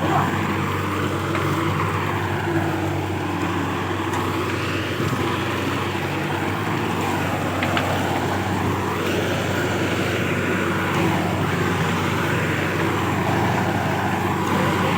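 Kubota farm machine's diesel engine running steadily.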